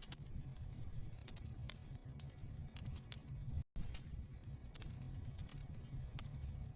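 Wood fire burning in a fireplace: a low rumble of flames with irregular sharp crackles and pops. The sound cuts out completely for an instant a little past halfway.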